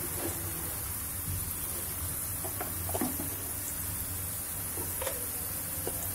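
Onion and tomato mixture sizzling steadily in oil in a frying pan. A few short pitched calls sound in the background about two and a half to three seconds in and again about five seconds in.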